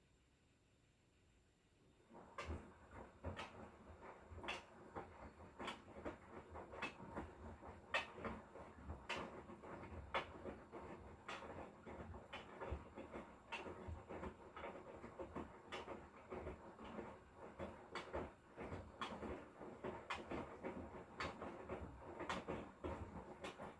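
Hotpoint Core washing machine with an inverter motor: after a brief pause the drum starts turning again, and the load tumbles with a soft knock about once a second over a low rustle.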